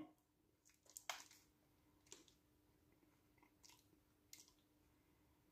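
Near silence with a few faint, scattered clicks and crunches of a mouth chewing a bite of a Knoppers peanut chocolate bar.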